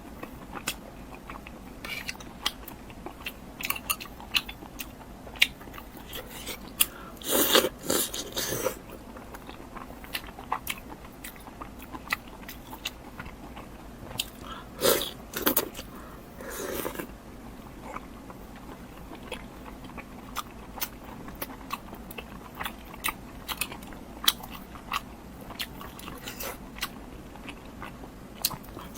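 Close-miked eating: biting and chewing with crunching and many small wet mouth clicks, with louder crunchy bites around 7 to 9 seconds in and again around 15 to 17 seconds in.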